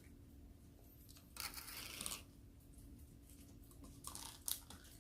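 Crackling and crunching from handling snow crab legs and their shells, with a burst about a second and a half in and a couple of sharp clicks near the end.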